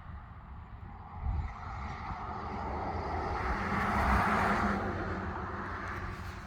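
A car passing by: tyre and road noise swells to its loudest about four seconds in, then fades away.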